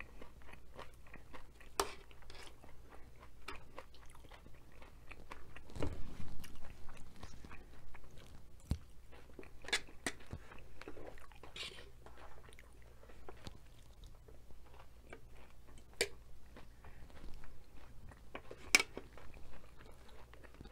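A person chewing and crunching food from a nacho platter with their mouth close to the microphone, with irregular crackles and a few sharp clicks.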